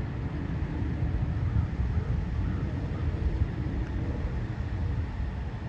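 Fire engine running with a steady low rumble while it pumps water to charge its supply hose line.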